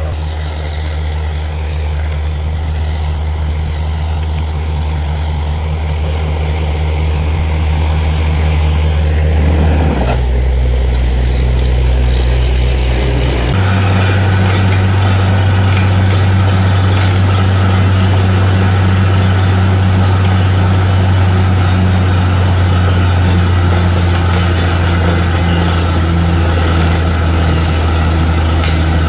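Borewell drilling rig running loudly and steadily, its low engine drone shifting in pitch about ten seconds in and settling into a new steady note a few seconds later.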